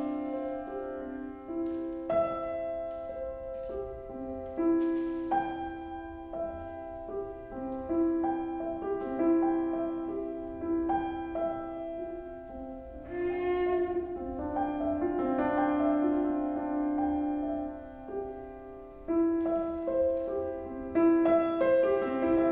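Piano trio (piano, violin and cello) playing contemporary classical music: sustained string notes over struck piano notes and chords, with sudden louder attacks about two, five and nineteen seconds in.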